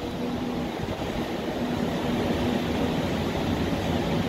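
Steady hum and rumble of a stationary passenger train standing at the platform, with a faint low tone coming and going.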